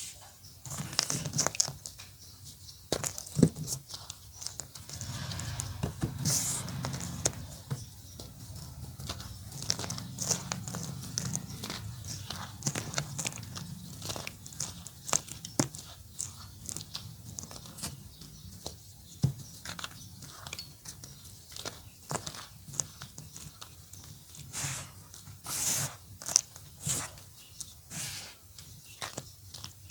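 Orange gym chalk being crumbled: a run of irregular dry crunches and crackles, some sharp and loud, with a softer grinding rustle for several seconds after the start.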